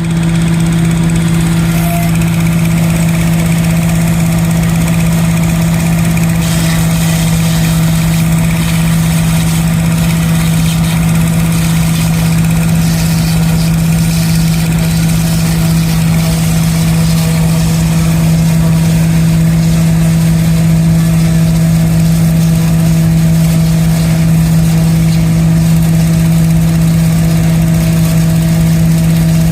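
An engine running steadily at constant speed, with a loud, even hum that does not change.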